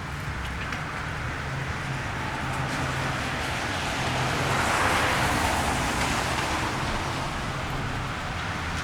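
A car passing on a rain-wet street: the hiss of its tyres on the wet road rises to its loudest around the middle and fades away, over a low steady hum.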